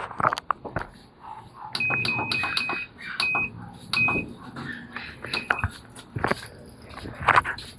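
Panasonic washing machine control panel beeping as its buttons are pressed: a quick run of short high beeps, then a few single beeps, with clicks and knocks in between.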